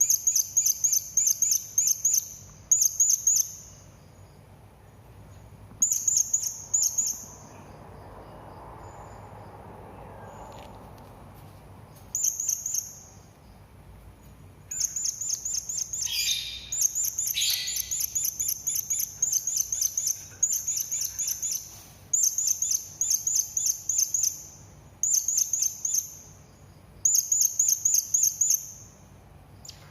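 Serindit (hanging parrot) calling: bursts of rapid, high, thin chirps, each burst lasting one to two seconds, separated by pauses. About halfway through, two lower falling notes cut in among the chirps.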